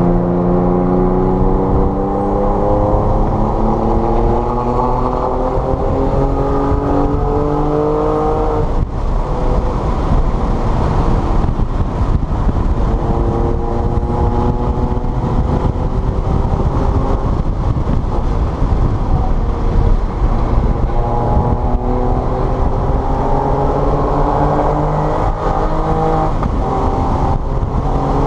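Car engine accelerating hard on a wet track, its pitch climbing steadily for about eight seconds, then dropping off suddenly as the driver lifts, before two more long rising pulls. A steady rush of tyre and spray noise runs underneath.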